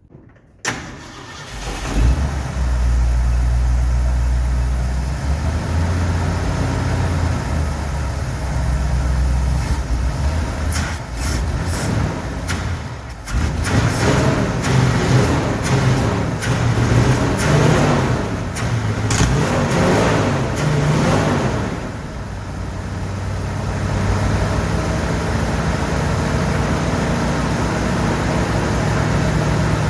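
1969 Ford F100 truck engine, its carburetor just rebuilt, starting up and running. The engine speed rises and falls through the middle before settling to a steady idle near the end.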